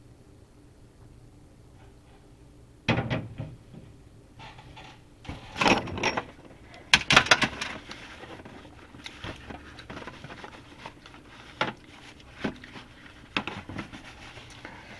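Beer being sipped and tasted from a glass: sudden noisy sips or slurps about three seconds in and again around six to seven seconds, with scattered small knocks and clicks as the glass is handled.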